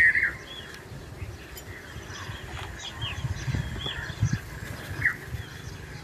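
Small birds chirping again and again, with a louder call right at the start, over a low steady hum.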